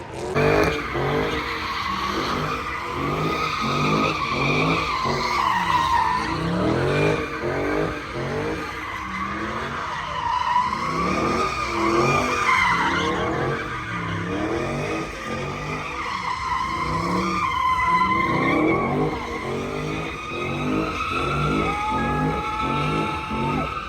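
Car engine revved hard and let fall again and again, about once a second, while its tyres spin and squeal steadily.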